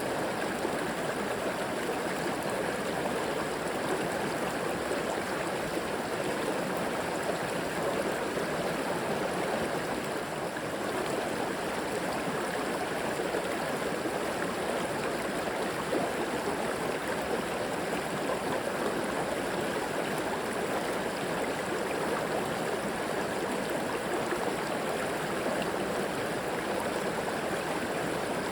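A river flowing steadily over rocks, an even rushing with gurgling water.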